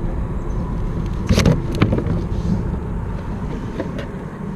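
Steady low wind rumble on the microphone, with a few sharp knocks and rattles about a second and a half in and again near the end, as a netted small northern pike thrashes and is handled in the kayak.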